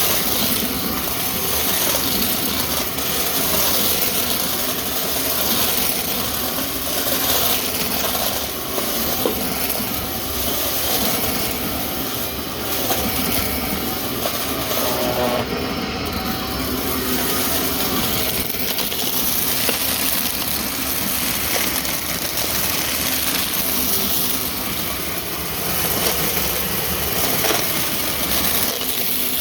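Vacuum cleaner running steadily while vacuuming, its motor and brushroll making a constant whir whose pitch wavers slightly.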